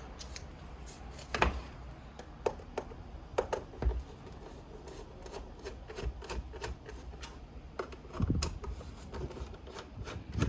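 Screwdriver work on the iMac's RAM access cover screw: irregular small clicks and rubbing scrapes of metal tools, with louder knocks about a second and a half in and again near the eight-second mark.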